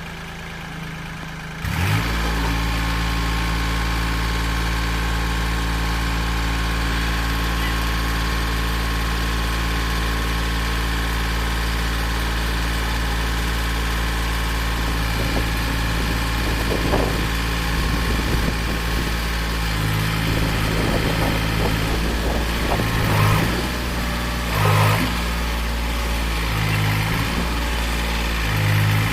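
Deutz-Fahr tractor's diesel engine running steadily under load, getting louder about two seconds in; over the last ten seconds its sound swells and drops several times.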